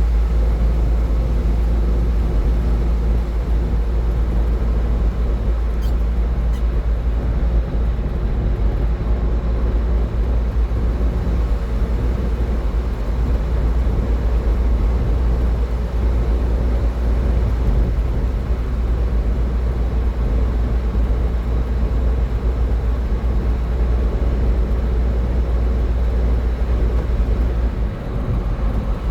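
A car driving at highway speed: steady road and tyre noise over a strong, constant low rumble, easing briefly near the end.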